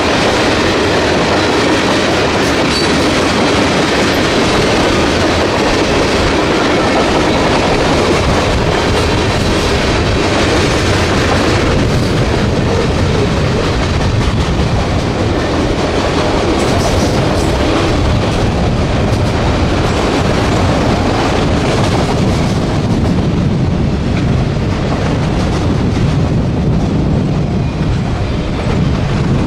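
A train's cars rolling past, loud and steady, with many quick wheel clicks over the rails.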